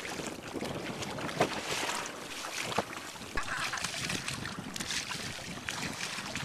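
Water splashing and lapping against an inflatable kayak under way, with irregular small slaps, and wind buffeting the microphone.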